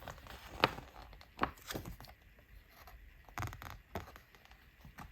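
Paper rustling and a few soft taps from the stiff pages of a picture book being handled and turned.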